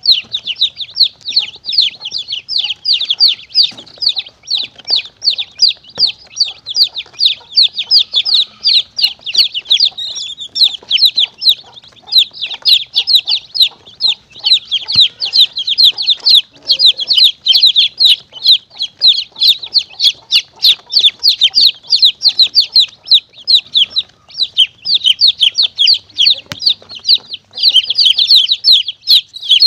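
Chicks peeping shrilly and without pause, several short falling peeps a second, overlapping as if from more than one chick. It is a predator lure call used to draw monitor lizards and mongooses.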